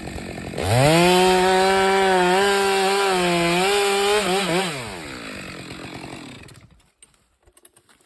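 Two-stroke chainsaw revved up to full throttle about half a second in and held there for about three and a half seconds, its pitch dipping slightly now and then. It then drops back and dies away to quiet about seven seconds in.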